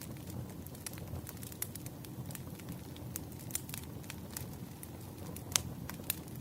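Fireplace crackling: irregular sharp pops and snaps of burning wood over a steady low rumble, with one louder pop about five and a half seconds in.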